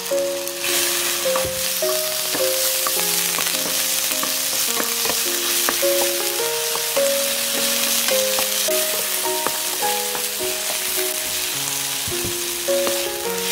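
Onion and shrimp sizzling as they fry in a ceramic-coated pan, stirred with a wooden spatula that scrapes and taps against the pan now and then. A gentle background melody plays over it.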